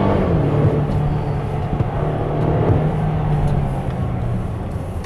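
Mercedes GLC 250's turbocharged 2.0-litre four-cylinder engine pulling at speed over road noise. Its pitch steps down once just after the start, then holds steady, and the engine note fades away near the end.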